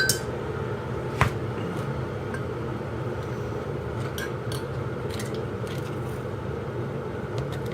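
A steady low hum with a sharp click of kitchenware about a second in, then a few faint light taps, while a hot drink is being made.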